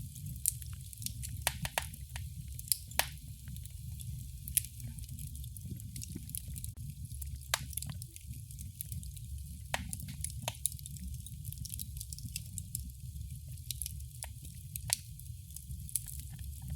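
Fireplace fire crackling: irregular sharp snaps and pops over a steady low rumble and a soft hiss.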